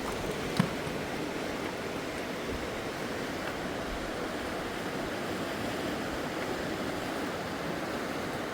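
Swollen river rushing, a steady even wash of water noise. A single short knock sounds about half a second in.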